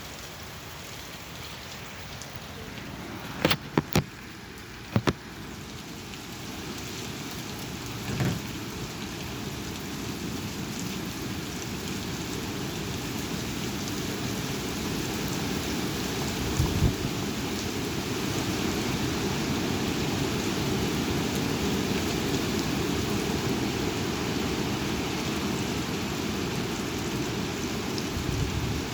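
Heavy thunderstorm rain with strong wind, a steady hiss that swells over the first half and then holds. A few sharp clicks come about four seconds in, and short dull thumps near eight and seventeen seconds.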